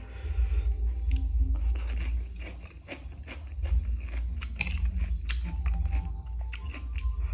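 A person chewing mouthfuls of crunchy shredded green papaya salad close to the microphone: many short, crisp crunches in an irregular run, over a steady low hum.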